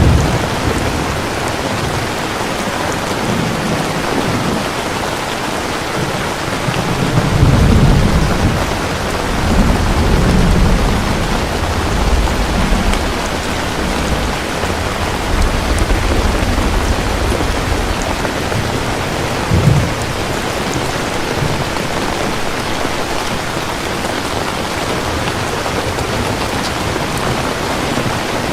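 Steady heavy rain falling, with low rolls of thunder: a long rumble about seven to eleven seconds in and a shorter low thump about twenty seconds in.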